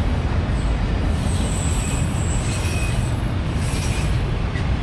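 CSX freight train cars rolling past with a steady heavy rumble, with thin high-pitched wheel squeal coming and going twice.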